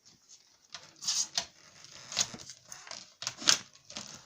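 Handling noise as self-adhesive sound-deadening sheet is worked onto a metal window sill flashing: a series of short, irregular rustles and scrapes, the loudest about three and a half seconds in.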